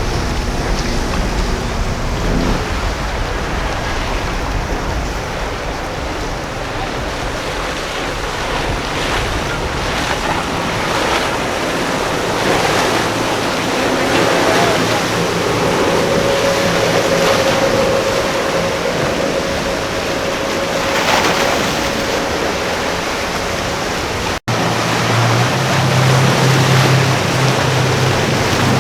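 Surf and wind buffeting the microphone, with boat engines running. A steady engine drone holds through the middle, and after an abrupt cut about three-quarters of the way in, a lower engine hum takes over.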